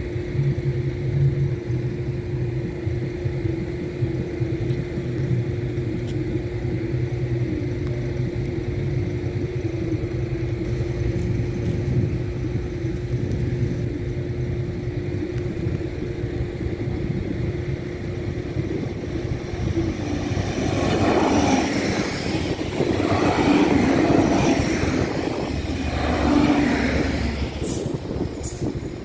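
A train passing a railway level crossing: a steady low rumble with a constant hum. About two-thirds of the way in it grows louder, with high-pitched squealing.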